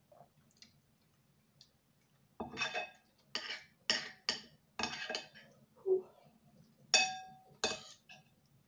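A utensil clinking and scraping against a dish, about eight strikes in a row starting a couple of seconds in, the loudest near the end with a short ring.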